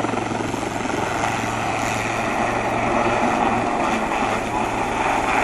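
Westland Lynx helicopter's main rotor and twin turbine engines running steadily, a constant low hum under a dense rushing noise.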